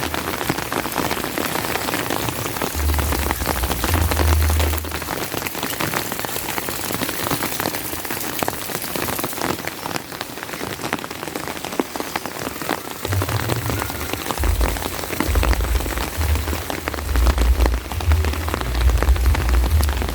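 Steady rain falling, a dense hiss of countless drop ticks. A low rumble comes and goes beneath it, mostly in the second half.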